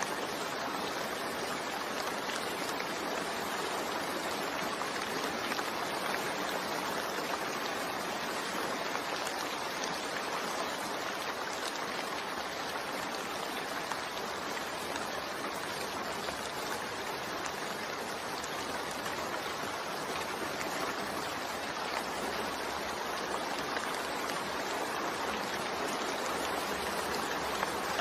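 Steady rain falling, an even hiss of drops with a few faint individual taps.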